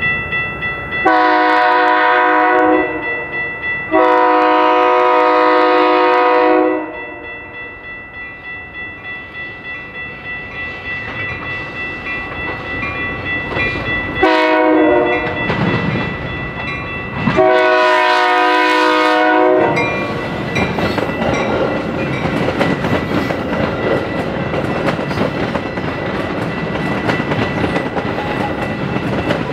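Metra commuter train's horn sounding the grade-crossing signal: two long blasts, then after a pause a short one and a long one, over a steadily ringing crossing bell. From about two-thirds of the way in, the bi-level train passes with a steady rumble of wheels on rail.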